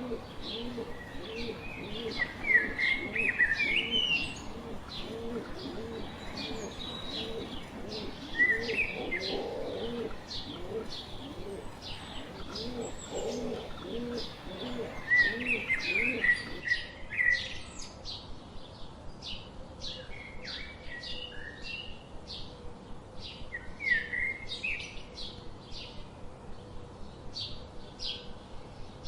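Birds calling, with short high chirps and a few sweeping notes throughout. A low call repeats about twice a second for the first half and stops about sixteen seconds in.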